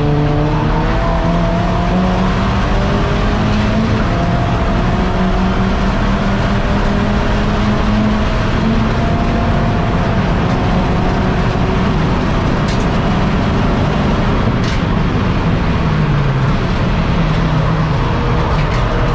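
SEAT Leon Cupra race car's engine heard from inside its stripped-out cabin, running under load with its pitch climbing slowly through a long pull, dropping about two-thirds of the way through, then climbing again near the end. Two brief sharp clicks sound in the second half.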